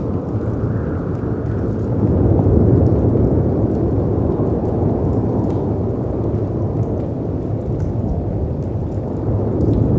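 Layered storm ambience: a deep, steady rush of wind and crashing sea waves that swells about two seconds in and then eases, with faint scattered crackles of a wood fire over it.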